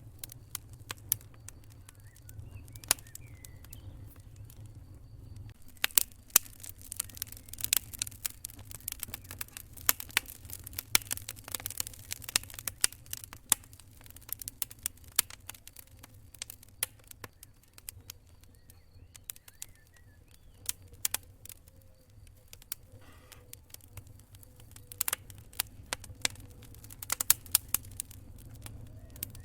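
Campfire crackling: a steady run of sharp pops and snaps from burning wood, thickest in the middle stretch and again near the end, over a low rumble of the flames. A faint, steady high cricket chirring comes and goes underneath.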